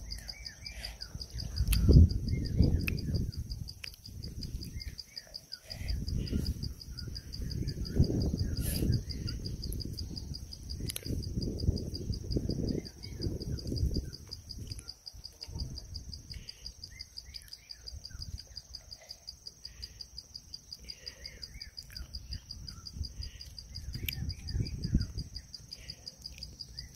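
Close-up chewing of crisp green Burmese grapes: irregular low crunching bursts, settling into a steady chewing rhythm of two or three bites a second in the middle stretch. A steady, high, pulsing insect trill runs underneath.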